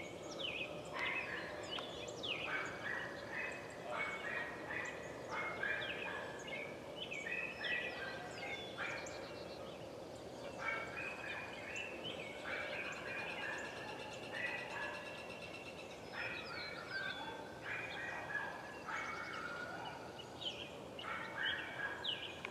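Birds calling: many short, overlapping chirps and warbles one after another.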